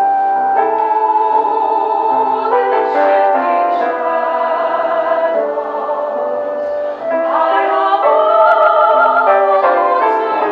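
Operatic singing over instrumental accompaniment, from an opening number of a light opera, with held notes sung with vibrato about three quarters of the way through.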